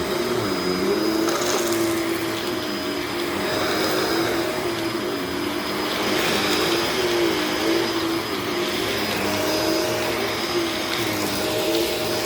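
Upright vacuum cleaner running steadily as it is pushed over a dirty carpet, its motor pitch dipping slightly now and then, with a faint high whine over the motor.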